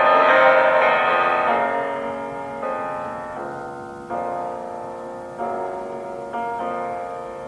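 Solo piano playing slow, soft chords, each struck and left to fade before the next, in a gentle classical piece.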